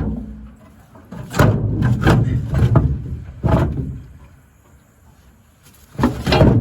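Handling noise on the camera's microphone: loud bumps and rubbing as the camera is set down and moved, in several rough bursts. The first comes at the very start, a longer cluster about a second and a half in, and another near the end.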